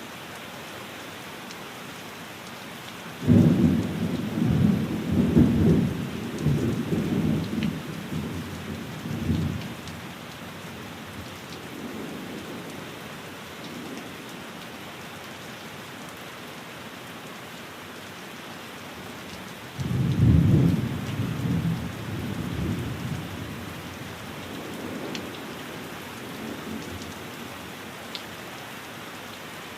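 Steady rain on a window with two rolls of thunder: the first begins about three seconds in, the second about twenty seconds in, and each rumbles low and loud for several seconds before fading back under the rain.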